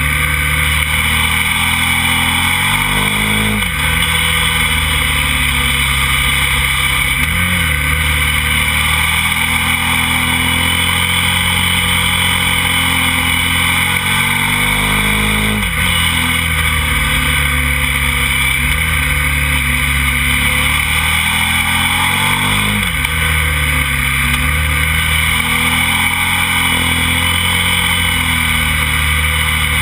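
KTM motorcycle engine running hard under way, heard from a camera on the bike, its pitch dipping sharply and climbing back again four times. Steady wind rush on the microphone runs under it.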